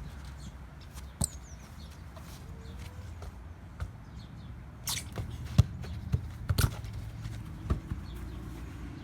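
A football being kicked and bouncing: a run of short, irregular thuds and knocks, most of them in the second half.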